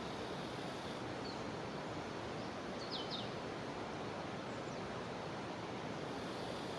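Steady rushing of a jungle river, with a high cicada drone above it and two or three short bird chirps about three seconds in.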